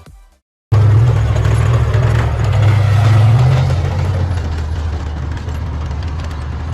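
A vehicle engine running steadily with a strong deep hum, starting abruptly under a second in after a short silence.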